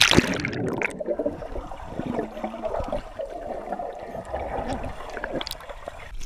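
Water gurgling and splashing, with a sudden louder splash right at the start.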